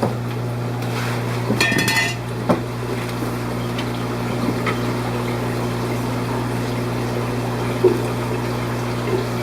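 Fish-room aquarium pumps and filters running with a steady low hum and water moving. About a second and a half in comes a brief high-pitched ringing sound, followed by a few light knocks.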